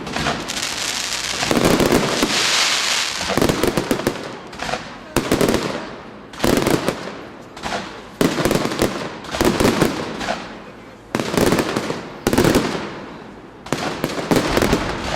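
Fireworks display: aerial shells bursting in rapid clusters of sharp reports, a new cluster about once a second, with a stretch of hissing crackle about two to three seconds in.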